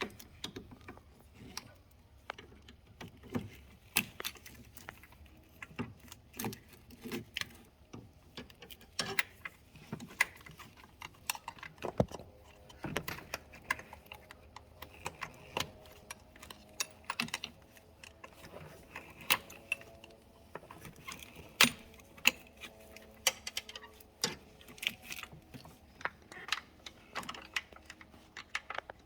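Irregular metallic clinks and clicks of hand tools and engine parts being handled, with no steady rhythm.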